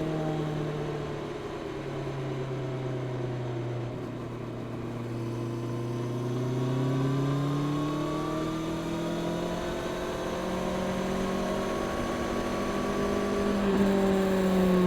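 Honda CB650R's inline-four engine through its stock exhaust, heard while riding. The engine note eases off over the first few seconds, with a drop about two seconds in, then climbs steadily under throttle through most of the rest, with a brief break near the end.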